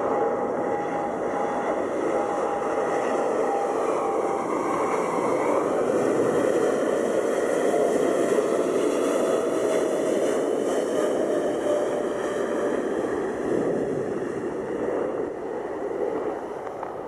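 Jet airliner engines at takeoff power passing by: a loud rush that builds to a peak about halfway through and then fades, with an engine whine sliding slowly down in pitch.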